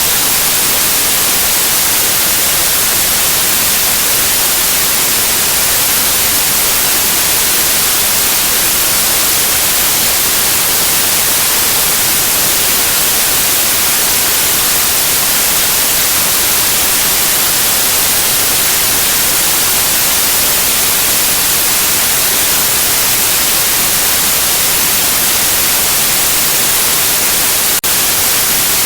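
Steady electronic white noise, an even hiss with most energy in the high frequencies, played as a sleep aid for babies. Its level dips for a split second near the end.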